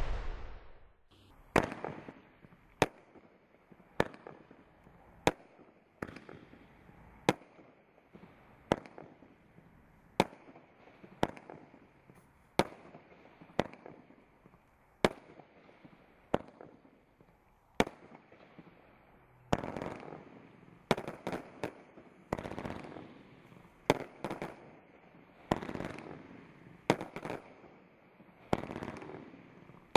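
Bright Stars Brocade Blitz multi-shot firework barrage firing. Single sharp shots come about every second and a bit, and from about twenty seconds in they turn into longer overlapping clusters of bangs and crackle as the brocade bursts break in a fan.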